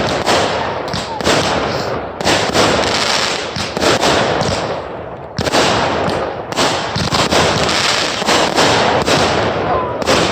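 Fireworks going off in quick succession: many sharp bangs, several a second, over continuous crackling, with a short lull about five seconds in.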